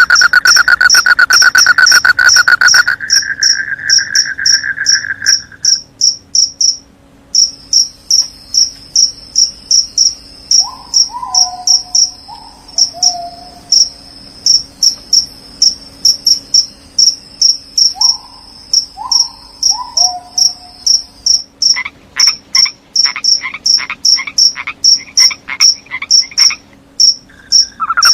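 Crickets chirping in a fast, steady pulse, with a continuous insect trill over the first few seconds. Frogs call in short groups of falling notes about ten seconds in and again near twenty seconds, and a rapid run of clicking calls follows near the end.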